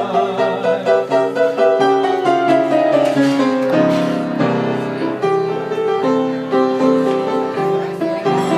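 Solo piano playing a slow jazz ballad passage between the singer's lines, chords and single notes, with a run of falling notes a couple of seconds in.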